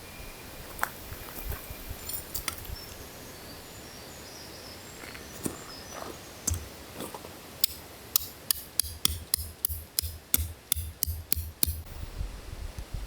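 Steady rain falling in a forest. In the second half comes a quick run of sharp clicks, about four or five a second, for about four seconds.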